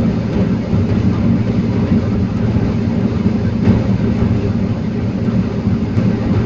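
The engine of a heavy forestry machine running steadily during timber loading, a constant low hum with no change in pitch.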